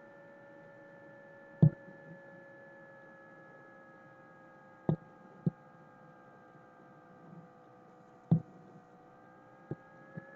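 A steady electrical hum made of a few tones that drift slightly lower in pitch. About six sharp clicks fall at uneven intervals through it, the loudest about two seconds in and near eight seconds.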